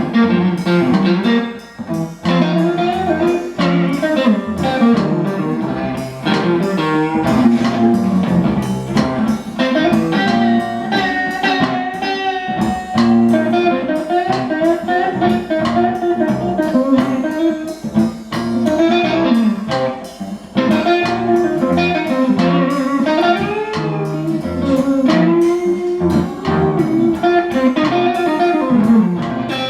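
Blues band playing an instrumental passage with the guitar to the fore, its notes bending and wavering.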